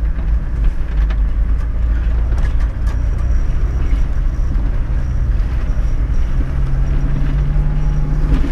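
A Toyota LandCruiser's naturally aspirated 1HZ diesel engine runs at low revs under load, heard from inside the cabin, with a deep steady rumble and a few light knocks and rattles. About six seconds in, the engine note steps up slightly as it takes more throttle.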